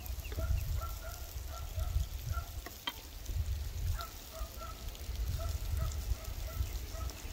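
A bird calling a run of short, evenly repeated notes, about four a second, which stops near the middle and starts again, over a low wind rumble on the microphone. A single sharp click comes about three seconds in.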